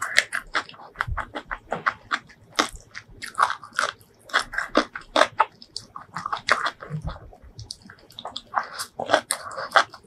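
Close-miked chewing of a mouthful of food, with many sharp, irregular crunches and wet mouth clicks.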